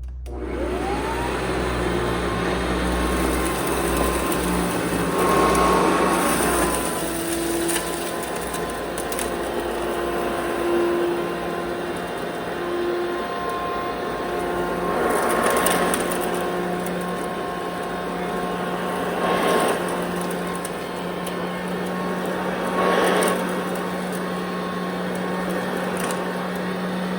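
1990 Hoover Encore Limited Edition upright vacuum cleaner switching on, its motor whine rising to speed in the first second, then running steadily over carpet, the sound swelling briefly several times.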